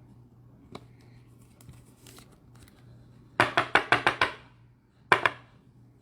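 Hands handling trading cards and their packaging at a table: a few faint clicks, then a quick run of about eight sharp crackling snaps past the midpoint and two more near the end.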